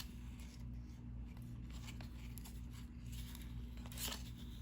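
Cardboard trading cards being slid one over another as a pack is flipped through, a few soft swishes with the clearest near the end, over a steady low hum.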